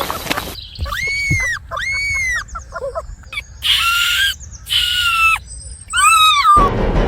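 A series of about six drawn-out, high-pitched animal cries, each under a second. Most rise and then fall in pitch. Two in the middle are flatter and harsher. The last one wavers. Background music comes in near the end.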